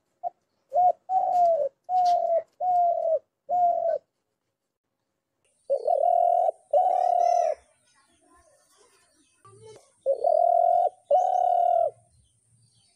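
Dove cooing: a quick run of four or five short coos, then after a pause two longer coos, and near the end two more.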